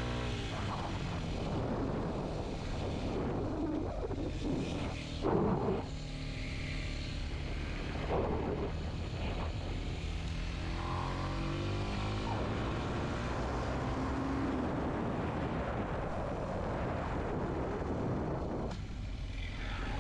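Kawasaki Z125's small air-cooled 125 cc single-cylinder engine under way, its revs rising and falling as it pulls and shifts through the bends, over steady rushing noise. There is a brief louder burst about five seconds in.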